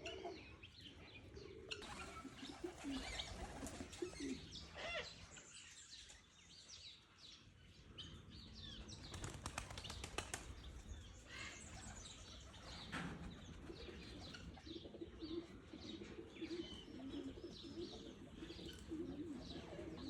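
Doves cooing softly in the second half, with small birds chirping in short quick notes and some wing flapping.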